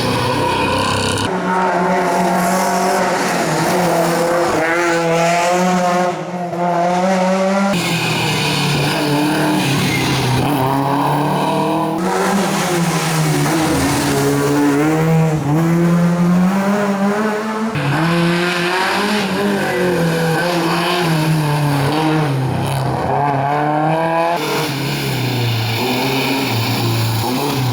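Historic rally cars at full throttle, their engines revving hard up through the gears and dropping in pitch at each shift. The sound cuts abruptly from one car to the next every few seconds.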